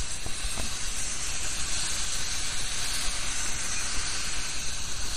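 Double-stack intermodal freight train passing close by: a steady rushing hiss of steel wheels rolling on the rail, with a low rumble beneath.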